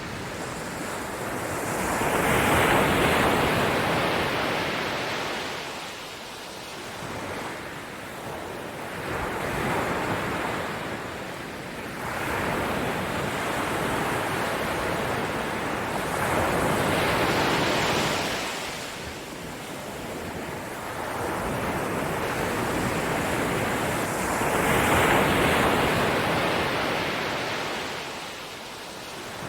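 Ocean waves washing onto a shore, a rushing surf that swells and falls back in slow surges every several seconds.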